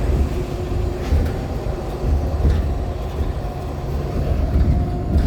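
Cabin noise inside a moving 2014 NOVA LFS Artic diesel-hybrid bus: a steady low rumble from the Cummins ISL9 drivetrain and the road, with a few brief knocks and rattles from the body.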